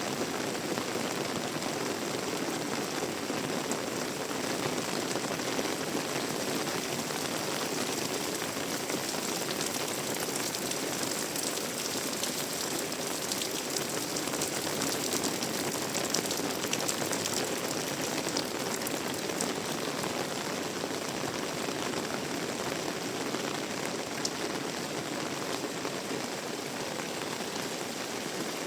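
Heavy tropical rain falling steadily, with a dense hiss of drops hitting surfaces. Sharper close drop hits come and go, thickest around the middle.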